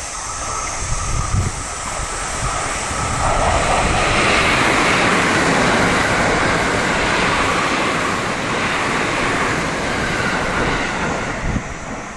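A 681/683-series limited express electric train passing at speed: a broad rush of wheel and air noise that swells about three seconds in, is strongest through the middle and dies away near the end.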